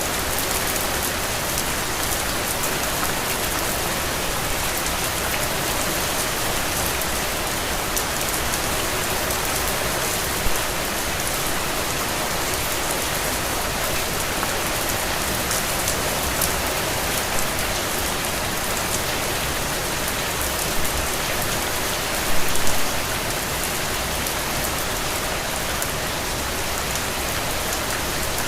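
Steady rain falling, an even hiss with fine drop patter. A few sharper taps stand out above it, the loudest a brief cluster about three quarters of the way through.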